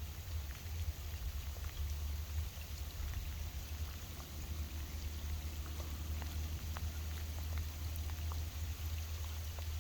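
Rain falling, with many scattered sharp drop ticks over a steady hiss and a steady low rumble underneath.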